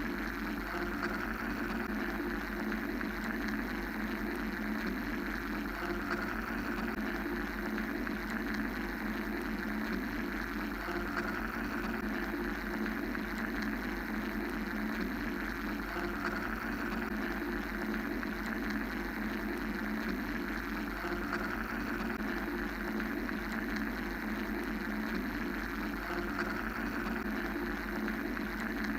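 Steady mechanical-sounding white noise: a continuous low hum and hiss in fixed bands, with a gentle swell about every five seconds.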